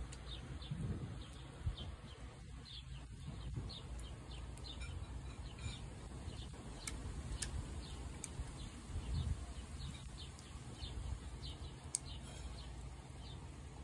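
A small bird chirping over and over, short high falling chirps a few times a second.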